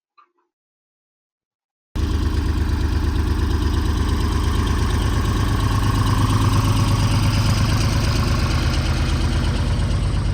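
About two seconds of silence, then a tractor engine, the John Deere 4010's, comes in suddenly and runs steadily at idle.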